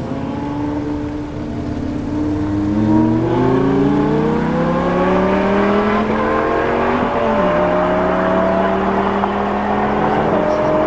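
Novitec-tuned Ferrari F12 Berlinetta's V12 accelerating hard, its note climbing steadily in pitch; about seven seconds in the pitch dips briefly at an upshift, then keeps rising.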